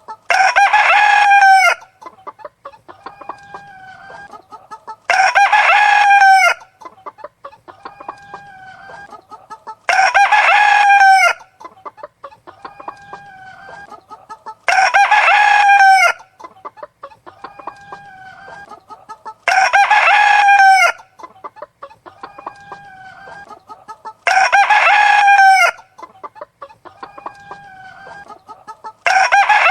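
A rooster crowing seven times at even intervals of about five seconds, each crow lasting about a second and a half and sounding the same every time, with softer chicken clucking between the crows.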